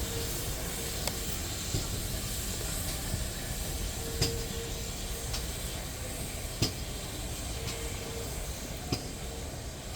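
Steam locomotive hissing steam steadily, with a handful of sharp clicks scattered through it.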